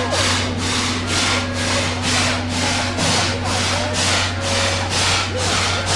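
Steam locomotive of the SL Taiju, a C11-class tank engine, chuffing at an even beat of a little over two exhaust beats a second while running, with a steady low hum underneath.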